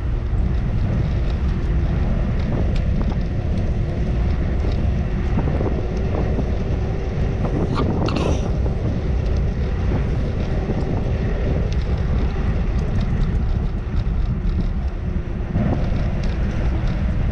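Wind rushing over the microphone of a camera on a moving bicycle, mixed with road and traffic noise. A brief sharper noise cuts through about eight seconds in.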